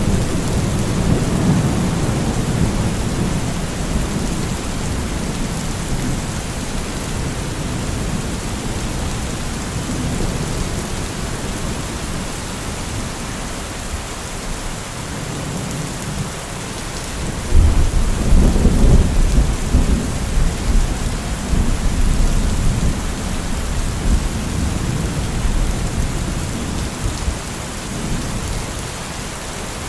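Steady heavy rain with rolling thunder. A louder, deep rumble of thunder swells up a little over halfway through and rolls on for a few seconds.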